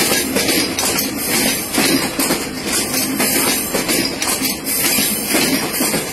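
Passenger trains running close alongside each other, heard from an open carriage window: wheels clattering over the rails and a steady metallic jangling rattle with many quick clicks.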